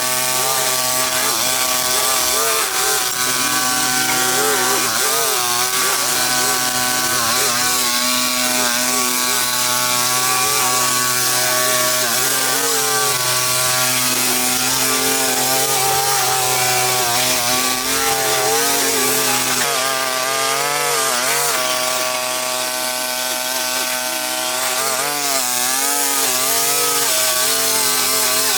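Small petrol engine of a handheld power tool running continuously at high revs, its pitch wavering up and down as it works under load.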